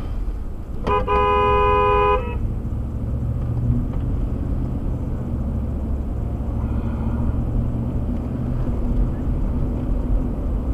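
A car horn sounds once for about a second, about a second in, a warning at a car that pulled out without stopping. The car's engine and tyres then keep up a steady low rumble inside the cabin.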